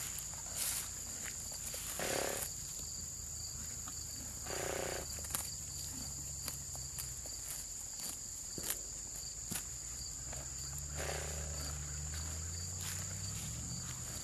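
Steady high-pitched trill of crickets, with scattered sharp clicks of a horse tearing and chewing grass and a few brief low sounds from the horses.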